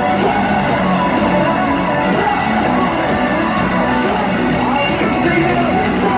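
Loud live pop music with singing over a stadium sound system, recorded from among the audience.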